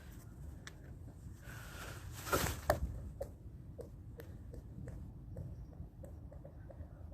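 A hard object strikes frozen pond ice about two and a half seconds in. The ice answers with a run of short, pitched pings that come faster and faster as the object bounces and settles.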